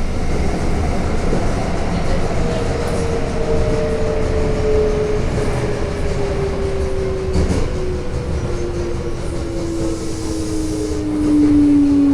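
Toei Asakusa Line 5300 series subway train running, its motor whine falling steadily in pitch as the train slows, over the rumble of the wheels on the rails. One brief knock sounds about seven and a half seconds in.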